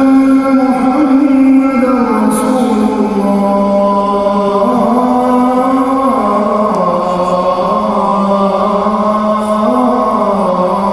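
A muezzin's male voice chanting the Fajr adhan in one long, held, melismatic phrase, the pitch stepping slowly up and down in ornamented turns, with a heavy echo.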